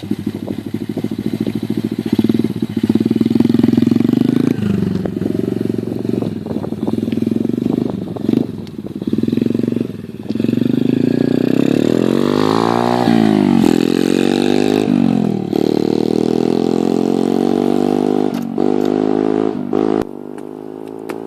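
Small 88cc dirt bike engine, power-restricted, running and revving, its pitch rising and falling repeatedly with the throttle, with a few knocks along the way. Near the end it drops to a lower, quieter steady idle.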